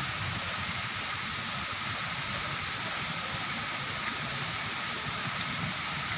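Waterfall rushing steadily, a continuous even hiss of falling water, with a faint thin high tone running through it.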